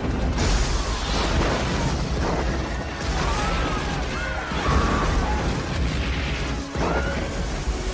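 Film sound of a meteor shower hitting a city: repeated impacts and explosions over a constant deep rumble, mixed with orchestral score. High wavering cries rise and fall through the middle.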